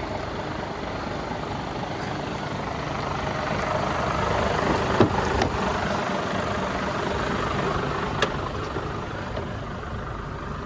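Mercedes-Benz Actros 1845 truck's straight-six diesel idling steadily. A few sharp clicks sound around the middle and again about 8 seconds in.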